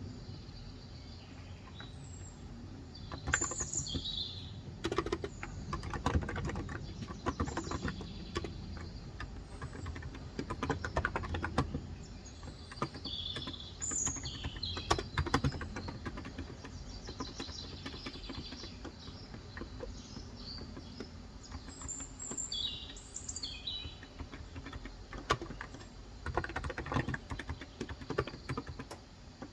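Typing on a Cox Endeavor electrostatic capacitive (35 g, tenkeyless) keyboard in bursts of rapid keystrokes with short pauses between them. Birds chirp in short calls throughout.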